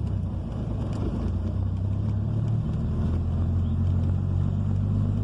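A 1990 Chevrolet Caravan's six-cylinder engine running as the car is driven slowly, heard from inside the cabin. Its low, steady note changes pitch a little about halfway through.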